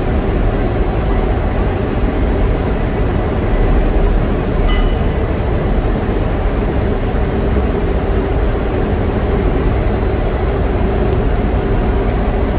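Heavy machinery running steadily with a deep, even din, typical of diesel generator engines running in an engine room. There is a short high ring about five seconds in.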